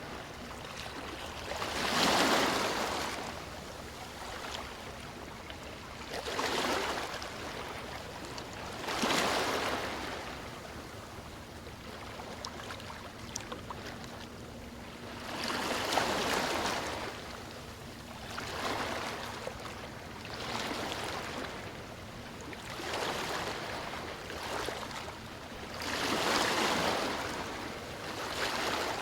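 Sea waves breaking and washing up a beach, about seven swells of surf a few seconds apart over a steady wash of water.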